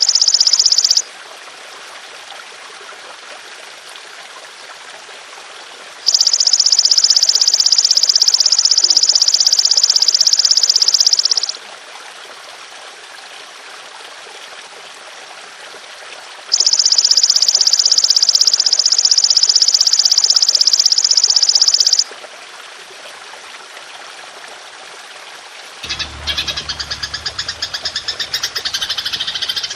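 Belalang emas insect calling in long, loud, high buzzing trills of about five and a half seconds each, three of them with pauses between, over a steady trickle of water. About four seconds before the end, a different, rapidly pulsing call with a low rumble starts.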